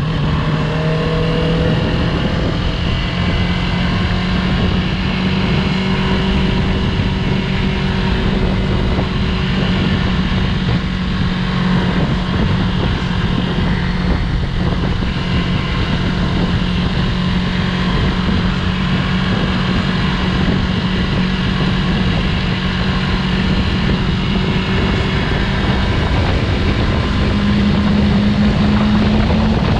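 Yamaha YZF-R3's parallel-twin engine running at steady revs while riding, the engine note dropping just after the start and climbing again near the end.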